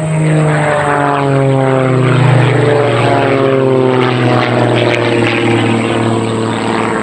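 Two Christen Eagle aerobatic biplanes in trail formation, their piston engines and propellers running hard, loud from about the start. The engine notes fall steadily in pitch as the planes pass.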